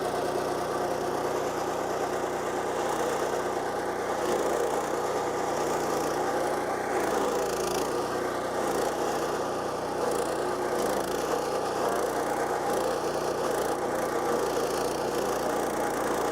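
Kohler Command PRO CH440 14 HP single-cylinder gas engine on a stump grinder running steadily.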